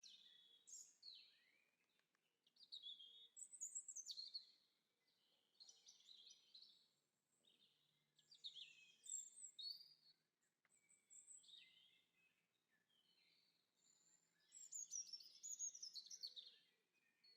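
Songbirds singing faintly, a series of short, high, quickly chirped phrases that come every second or two with brief pauses between them.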